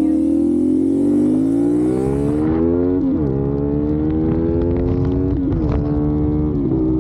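CFmoto 450SS parallel-twin engine pulling hard under acceleration, its pitch climbing through the revs and dropping sharply with upshifts about three seconds in and again about five and a half seconds in, with a smaller drop near the end.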